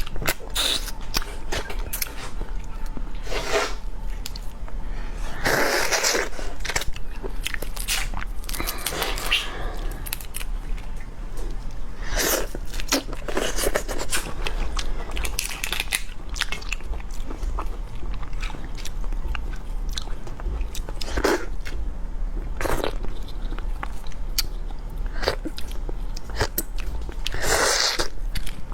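Close-miked eating: biting, crunching and chewing seafood, with many short clicks and smacks, over a steady low hum.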